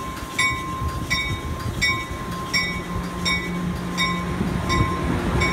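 Amtrak passenger train pulling out of the station, its low diesel rumble under a bell that rings steadily, about four strikes every three seconds.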